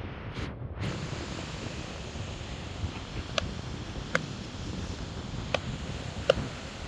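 Steady wind and surf noise, with a few short, sharp ticks in the second half.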